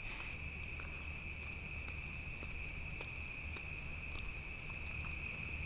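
Insects trilling in one steady, unbroken high-pitched tone, with a few faint clicks scattered through it.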